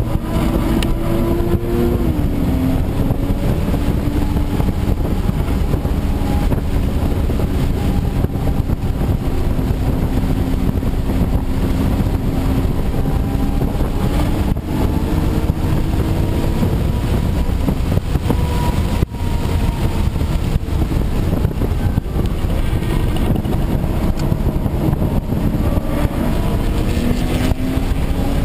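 Audi B5 S4's twin-turbo V6 heard from inside the cabin while driven hard on track, its pitch dropping and climbing with throttle and gear changes over heavy road and tyre rumble. A short sharp click about two-thirds of the way through.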